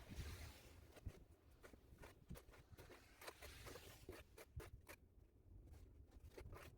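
Snow shovel scraping through fresh snow, faint, with two longer scrapes, one at the start and one about three seconds in, among scattered short crunches and ticks.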